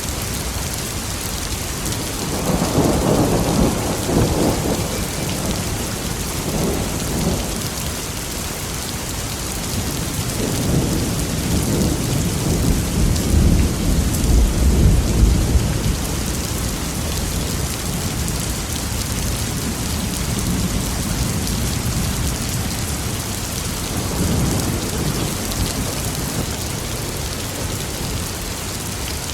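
Steady heavy rain with rolling thunder: a rumble about two seconds in, a longer, deeper roll peaking around the middle, and a softer rumble near the end.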